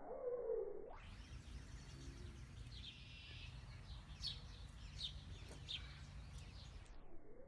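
Small birds chirping: a handful of short, high chirps over a steady low outdoor rumble. A brief, lower-pitched sound comes in the first half-second.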